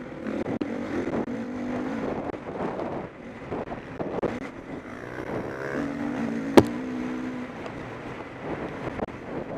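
Motocross bikes racing round the track, engines rising and falling in pitch as the riders open and close the throttle. About two-thirds of the way in comes a single sharp crack, the loudest sound.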